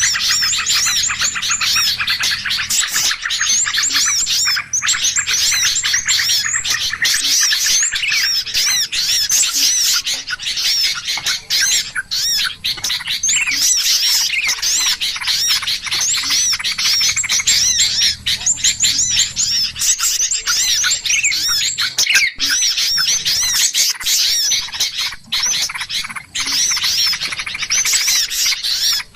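Dense chorus of many small birds chirping and chattering at once, a busy bird-lure recording of the kind played to draw wild birds in. The rapid, overlapping high calls run without a break.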